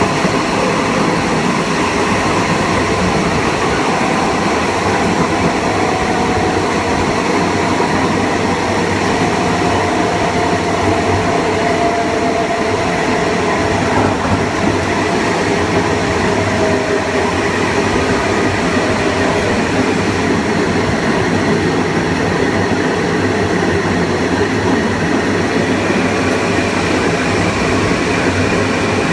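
Kawasaki M9 electric multiple unit running on the rails: a steady, loud rumble and rush of wheels and car body, with faint whining tones from its Mitsubishi Electric IGBT-VVVF inverter and AC traction motors that drift slowly in pitch, and a higher tone coming in near the end.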